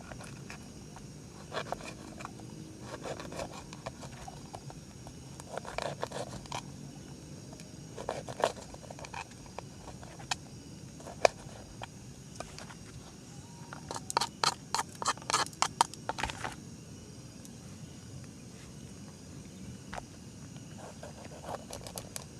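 Scattered knocks, clicks and scrapes over a steady low background, with a quick run of clicking about fourteen to sixteen seconds in.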